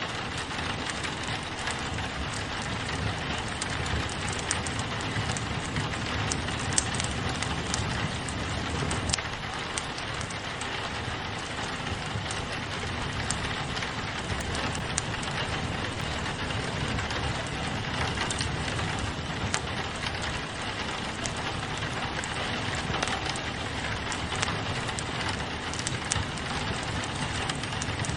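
Steady rain pattering on a window, mixed with a crackling wood fire whose pops and snaps come as scattered sharp clicks.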